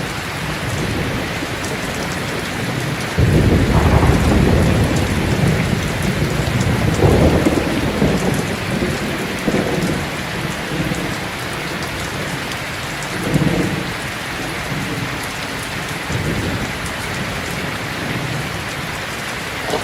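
Steady heavy rain, with a rumble of thunder breaking in suddenly about three seconds in and rolling on, swelling again several times before it dies back to the rain.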